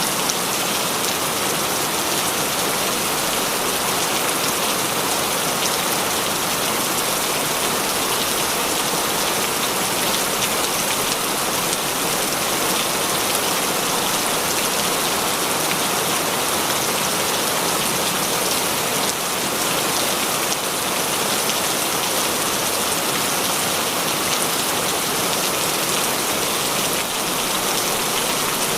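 Heavy rain falling steadily, a dense even hiss of many drops striking surfaces.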